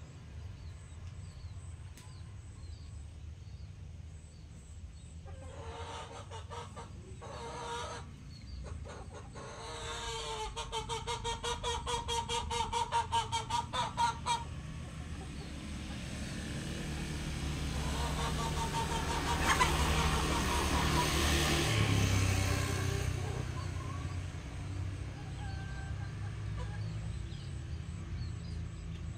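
Chickens clucking, with a fast pulsing cackle for a few seconds in the middle, over a low steady rumble. Later a vehicle passes, swelling and fading.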